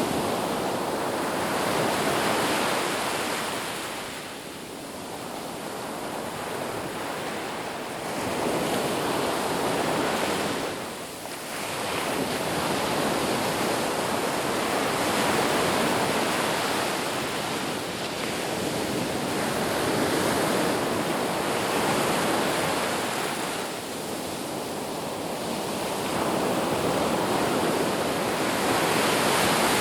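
Ocean surf: waves breaking and washing ashore in a continuous rush that swells and ebbs every few seconds.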